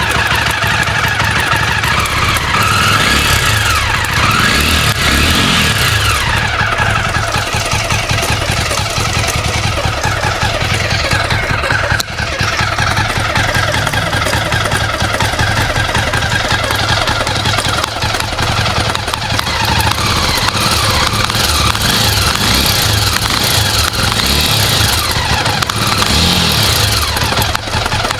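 Jawa motorcycle engine running and being revved up and down several times, with an abnormal, bad-sounding mechanical noise from the engine.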